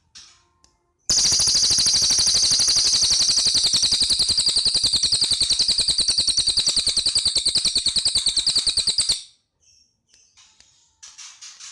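Cililin bird singing: a loud, very rapid, machine-gun-like rattle of notes starts about a second in and lasts about eight seconds. Softer, scattered chirps come before and after it.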